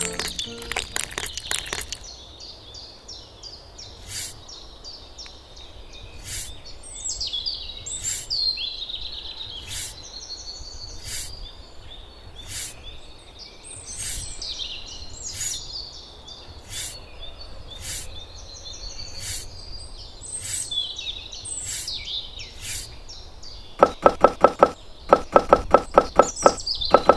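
Sharp knocks repeating about every second and a half, with birds chirping and trilling behind them. A fast run of knocks comes at the start, and another begins near the end.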